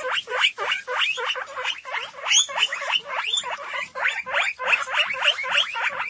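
Guinea pig squeaking: a fast, unbroken run of short, high squeaks that slide in pitch, about three or four a second.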